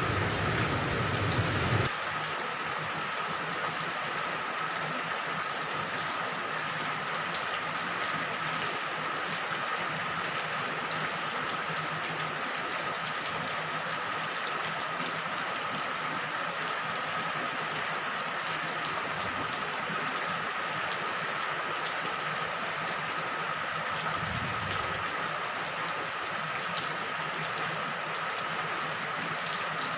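Steady rain falling, with a low rumble of thunder that cuts off abruptly about two seconds in. A faint, steady high tone sits under the rain.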